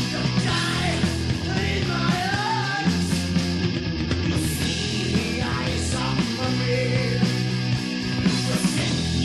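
Heavy metal band playing: distorted electric guitar and bass chords over drums with cymbal hits, with bending lead lines.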